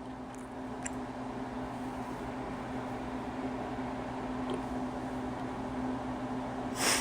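Steady room noise with a constant low electrical or fan-like hum, and a brief soft hiss near the end.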